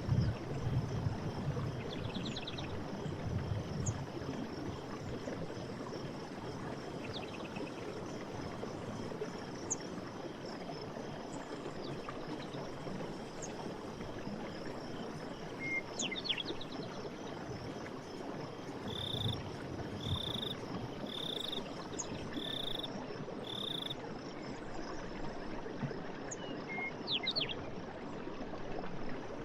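Running forest stream, a steady rush of water with some heavier burbling near the start, with scattered bird calls above it: short trills, quick chirps, and a run of five evenly spaced notes about a second apart.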